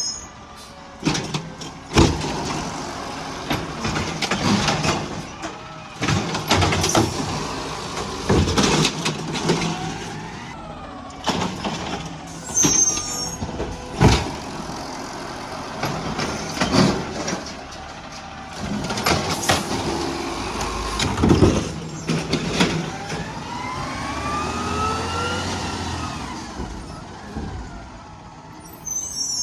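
Garbage truck at work: its engine running under repeated bangs and clatter. Near the end there is a rising whine as the engine revs up.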